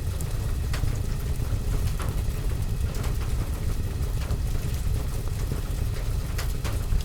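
Fireplace fire and rain mixed as a steady ambience: a deep, even rumble under sharp crackles about once or twice a second.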